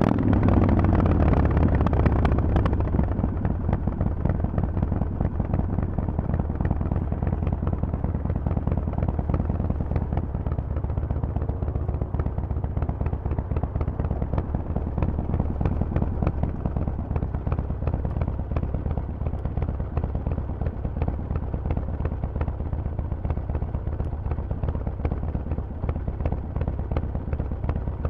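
Harley-Davidson Forty-Eight's 1200 cc air-cooled V-twin with a Vance & Hines exhaust. Its revs fall in the first two or three seconds, then it runs steadily at low revs with a rapid, uneven pulsing exhaust beat.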